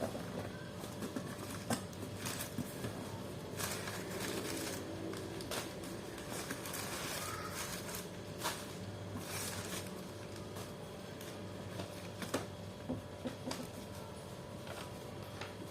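Scattered light clicks and short rustles of small diecast model car packaging being handled and opened, over a steady low hum.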